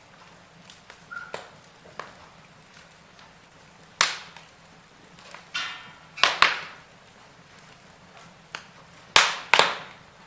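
Wood fire in a fireplace crackling, with sharp pops coming at irregular intervals over a soft hiss, the loudest around the middle and near the end.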